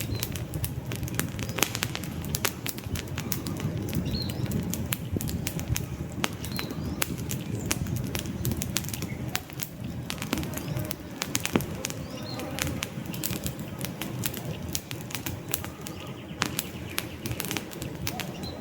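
Campfire burning: a steady low rush of flames with frequent sharp crackles and pops from the burning wood. Faint bird chirps come through now and then.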